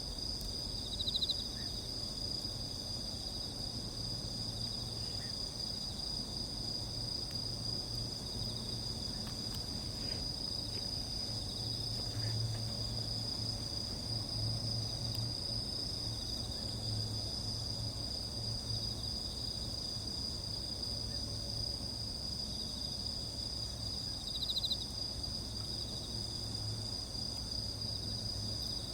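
A steady chorus of crickets and other insects trilling at several high pitches, with a short louder trill about a second in and again near the end. A few faint crackles from the campfire come through.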